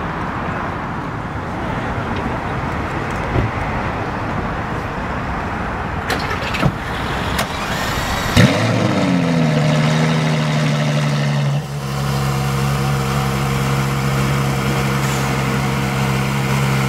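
Ferrari LaFerrari's V12 starting about halfway through: a sharp catch, a rev flare that falls away, then a steady idle. Before the start there is a steady rushing background noise with a few clicks.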